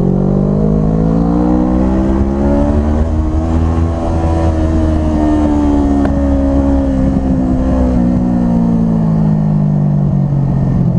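Kawasaki Ninja 650 parallel-twin motorcycle engine pulling under way with wind noise. The revs climb smoothly over the first few seconds, hold briefly, then ease back down over the second half.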